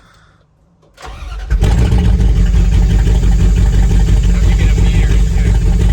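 Truck engine starting: a short cranking build-up about a second in, catching at about a second and a half, then running steadily and loud.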